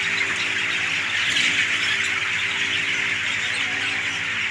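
Dense, steady chorus of chirping from a large flock of broiler chicks in a poultry shed, with a faint steady low hum underneath.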